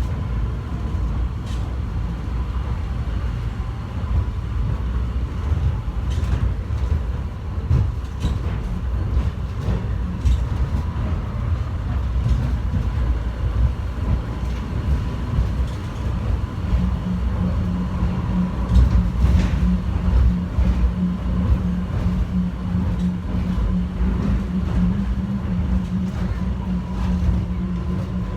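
Airport terminal subway train running along its track, heard from inside the car: a steady low rumble with a few scattered knocks and rattles. About two-thirds of the way through, a steady low hum joins in.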